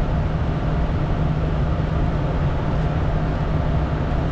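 Steady drone inside the cockpit of a Bombardier Challenger 350 business jet in climb: engine and airflow noise with a strong, even low hum.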